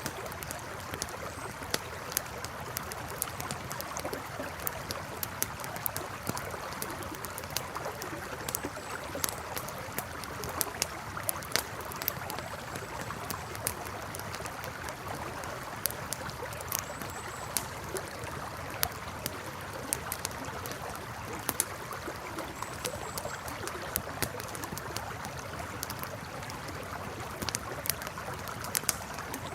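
Campfire crackling with frequent sharp, irregular pops over the steady rush of a flowing river.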